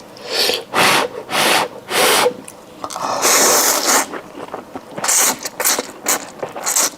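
A person slurping instant noodles in several short pulls, with a longer slurp about three seconds in, then chewing with quick small smacking sounds.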